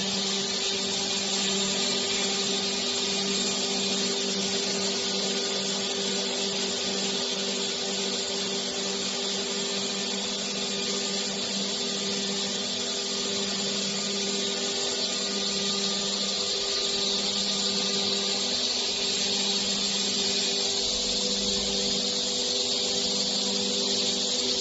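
Door panel sawing and milling machine running steadily: a constant motor hum under a high, even hiss from the spindle and saw, with no break or change in load.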